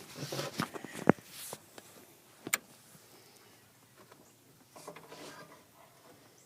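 Car door being worked: a sharp metallic latch click about a second in and a bang about two and a half seconds in, with soft rustling and handling noises around them.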